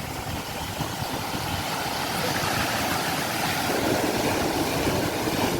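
Sea waves washing on the shore, a steady rush of surf that swells louder a couple of seconds in as a wave comes in.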